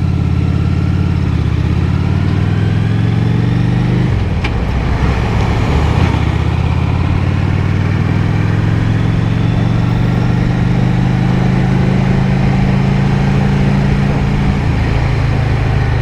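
Honda Shadow 750's V-twin engine running steadily under way, mixed with road and wind noise. The engine note dips briefly about four seconds in, then carries on steady.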